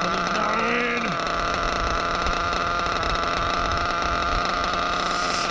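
Drag-modified Novarossi .28 nitro engine in a 1/7-scale RC truggy idling steadily at a high, even pitch. A short voice-like call rises and falls in the first second.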